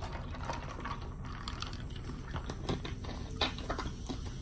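A person eating: soft chewing with scattered small mouth clicks.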